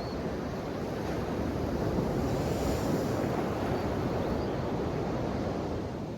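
Ocean surf washing ashore: a steady rush of breaking waves that swells a little about two seconds in and eases near the end.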